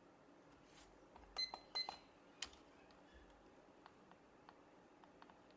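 Two short electronic beeps, each with a button click, about half a second apart, as a digital kitchen timer is set. A sharper click follows, then a few faint ticks.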